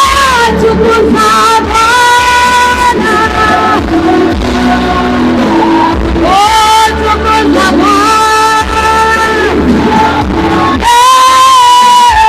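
Live worship music with singing: voices hold long, drawn-out notes with vibrato over band accompaniment, and a long high note swells in near the end.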